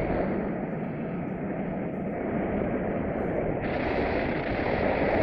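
Wind rushing steadily over the microphone of a paraglider pilot in flight in strong wind, growing louder near the end.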